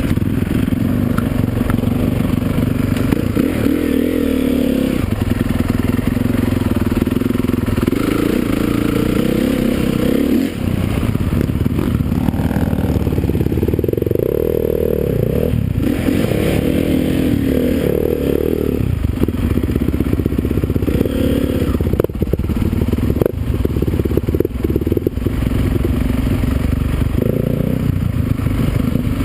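Motocross motorcycle engines revving hard, their pitch rising and falling continuously as the bikes accelerate and shift, with a few sharp clicks in the second half.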